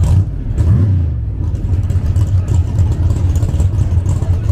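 Drag race car engine running with a deep, steady rumble, blipped in a quick rev about a second in.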